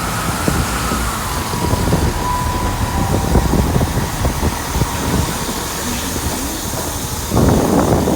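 A non-stopping train running through the station at speed, its wheels clattering rapidly on the rails, with a steady whine that drops in pitch about a second in as it passes. Near the end a louder burst of sound rises over it.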